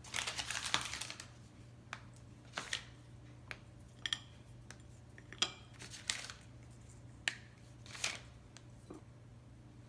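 A chocolate candy bar being broken into pieces by hand: a short rustle at the start, then a series of sharp snaps and clicks about a second apart.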